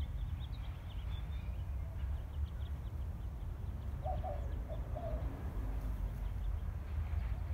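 Small birds chirping in quick, short high notes over a steady low rumble, with a few lower calls about four to five seconds in.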